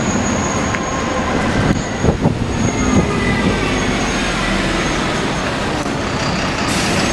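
Steady rumbling vehicle noise like a bus driving along, with a few knocks about two to three seconds in; it starts and stops abruptly.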